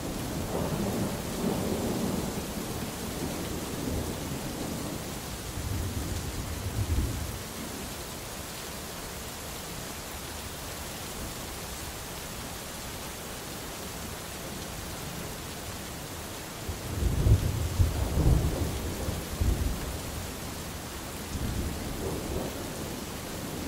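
Steady rain with several low rolls of thunder. A rumble comes near the start, another about six seconds in, and the loudest about seventeen seconds in, lasting a few seconds. A fainter roll follows near the end.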